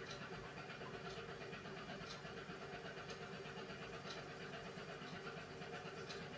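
Beko WMY81283LMB2 front-loading washing machine running partway through a gentle hand-wash cycle: a steady motor hum with faint ticks about once a second as the drum turns the load.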